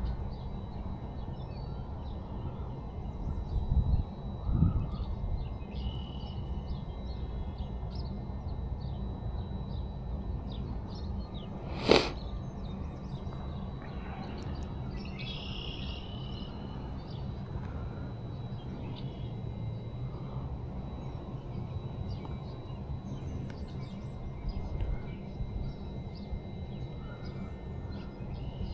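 Steady low outdoor background noise with a few short bird chirps, two dull thumps early on, and one sharp click about halfway through.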